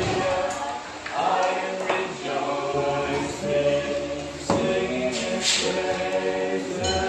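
A group of voices singing a cappella in harmony, holding long notes.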